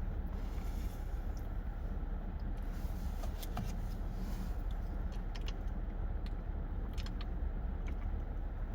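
Steady low rumble with scattered small clicks and crinkles while food is eaten and its packaging handled.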